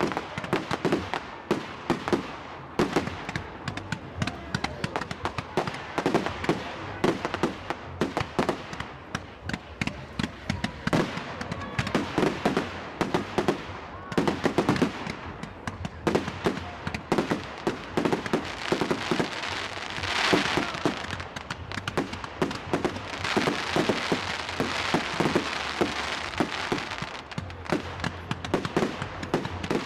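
Fireworks going off in a rapid, irregular barrage of bangs, with a burst of crackling hiss about two-thirds of the way through.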